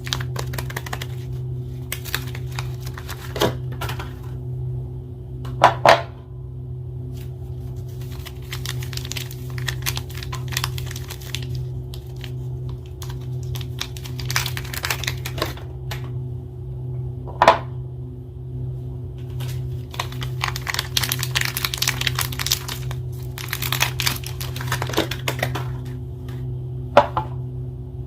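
Soap bar packaging being opened by hand: bursts of crinkling and tearing of the wrappers, with a few sharp snaps, over a steady low hum.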